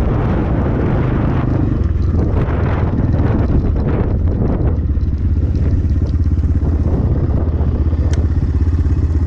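Templar X 250 dirt bike engine running steadily while the bike is ridden over a dirt trail, with some clatter from the bike over the ground.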